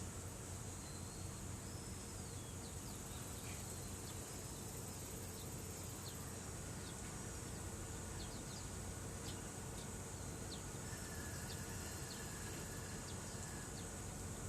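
Insects chirring steadily, with brief high chirps scattered through.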